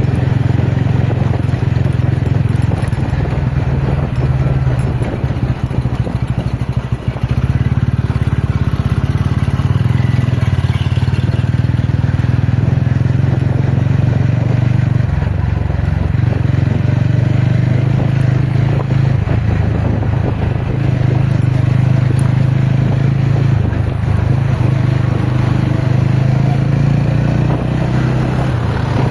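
Motorcycle engine running under way, a TVS Ronin's single-cylinder engine, with a strong low engine note over rushing noise. The note changes several times as the throttle and speed vary.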